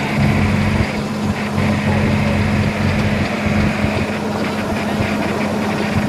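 Diesel engine running steadily at a constant speed, with a strong low hum.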